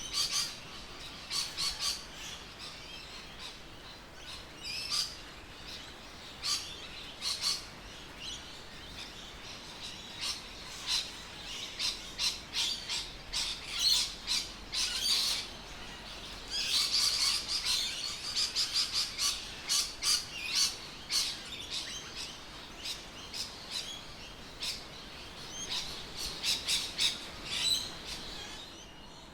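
Birds chirping and calling, many short high chirps coming thick and fast, busiest in the middle and again near the end.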